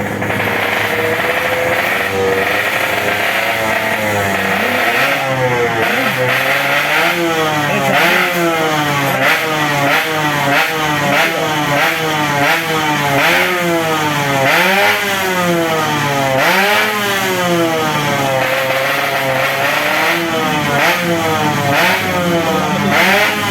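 Small 125cc underbone racing motorcycles revving hard at high rpm. The engine pitch climbs and drops again every second or two as the riders go through the gears and bikes pass.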